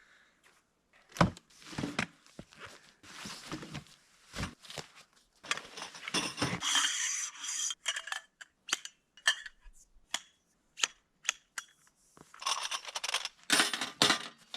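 Tent setup gear being handled: a run of light metallic clinks and knocks, with a spell of scraping about halfway through and a quick cluster of clicks near the end.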